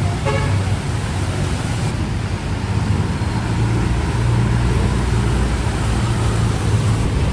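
Street traffic: a vehicle engine running close by with a steady low hum, over a continuous wash of road noise.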